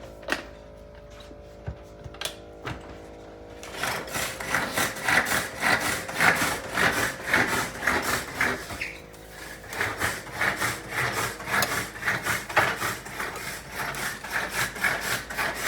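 Food being chopped in the kitchen: a few light knocks, then a rapid run of rhythmic rasping, scraping strokes starting a few seconds in, pausing briefly around the middle and resuming.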